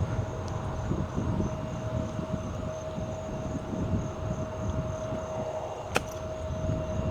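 A golf club striking the ball once on a low chip shot, a single sharp click about six seconds in, over a steady low outdoor rumble and a faint steady hum.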